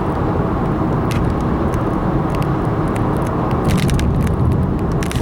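Car driving along a road: a steady rumble of road and engine noise, with scattered faint ticks over it.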